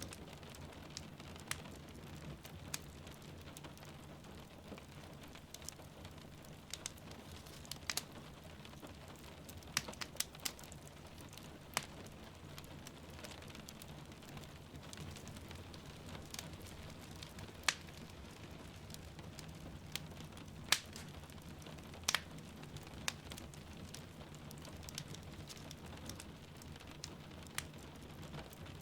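Wood fire crackling, with irregular sharp pops, a few louder ones about two-thirds of the way in, over a steady patter of rain.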